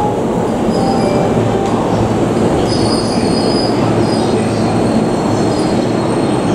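JR Nambu Line E233 series electric train pulling into the platform, its running rumble steady and loud, with high-pitched brake squeal about three seconds in as it slows.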